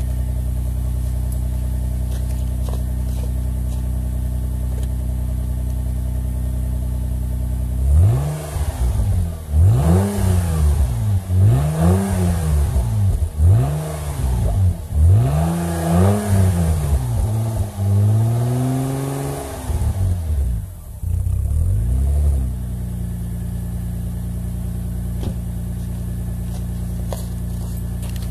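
1995 Nissan Maxima A32's V6 idling through an aftermarket 'fart can' exhaust tip and open intake filter, then revved in about six quick throttle blips, one held a little longer, before dropping back to a steady idle.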